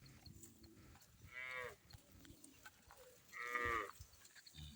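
A cow mooing twice: two short moos about two seconds apart, the second louder.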